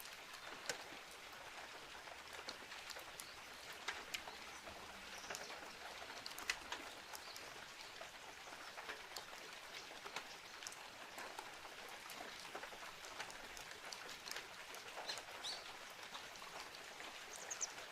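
Steady rain falling, with scattered individual drops ticking sharply through it.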